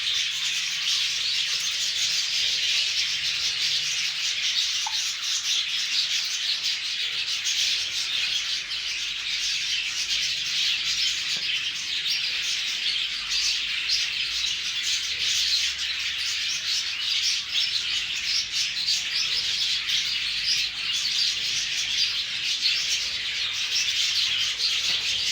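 Many birds chirping and chattering at once in a dense, steady chorus that never pauses.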